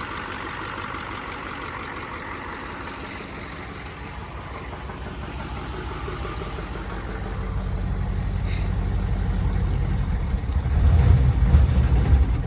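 Ford 7.3 IDI V8 turbo diesel engine running on its own, growing louder and deeper over the last few seconds, then cutting out near the end. The stall is from fuel starvation: the crew believe it ran out of fuel through its makeshift fuel line.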